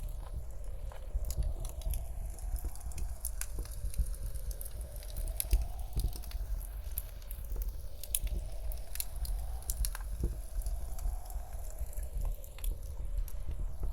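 Wood fire crackling in a fireplace, with irregular sharp pops, over a steady low rumble of blizzard wind and a faint howl that swells and fades every few seconds.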